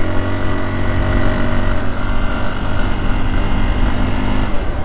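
Hero XPulse 200's single-cylinder engine running at a steady, even pitch while the motorcycle is ridden slowly.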